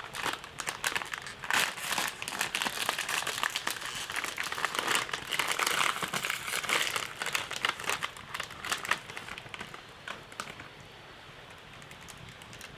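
Dense crinkling and crackling of something being handled, busy for about ten seconds, then thinning out to a few scattered crackles near the end.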